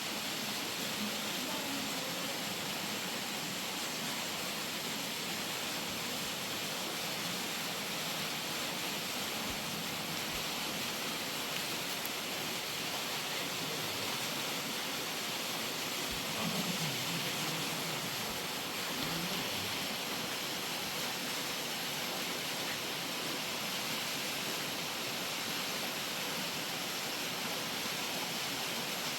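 Rushing river water: a steady, unbroken hiss of flowing water.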